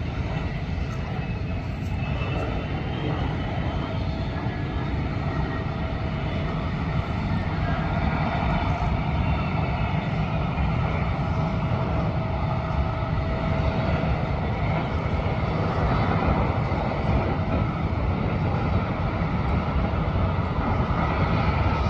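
Jet airliner's engines running, a steady noise with a faint whine that grows slowly louder.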